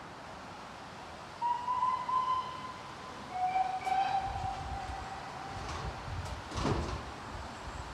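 A railway locomotive sounds two held notes, a higher one of about a second and then a lower, longer one. A low rumble of the train moving follows, with a short rushing burst near the end.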